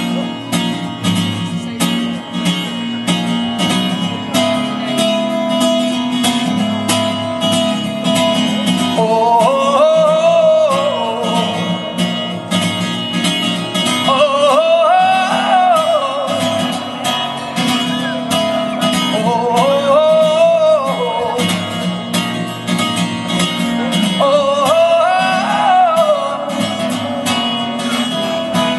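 Instrumental intro of a live song: a guitar strummed in a steady rhythm, with a wavering melodic line coming in about nine seconds in and returning in short phrases every five seconds or so.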